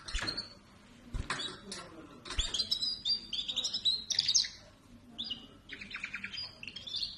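Pet songbird singing: quick runs of chirps and trills, with a pause in the middle. There are two dull knocks in the first few seconds.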